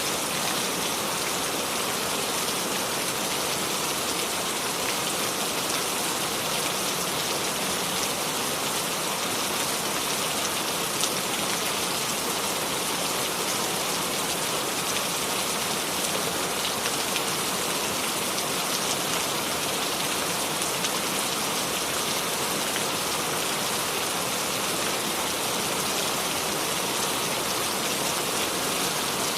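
Steady rain falling, an even dense hiss of drops on surfaces with scattered individual drop ticks and no thunder.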